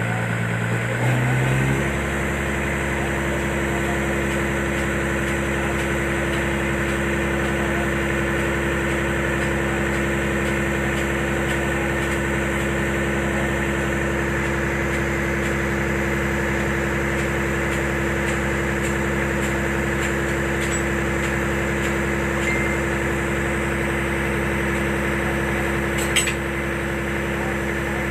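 Concrete pump truck's engine running steadily, its note stepping to a different pitch about a second in and then holding. A single short click near the end.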